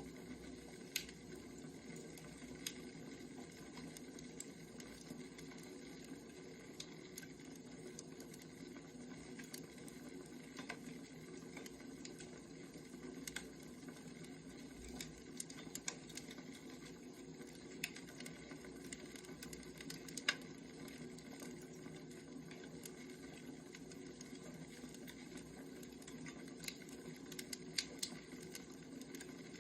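Burning firewood crackling: scattered sharp pops at irregular intervals over a steady low hum, with one louder pop about two-thirds of the way through.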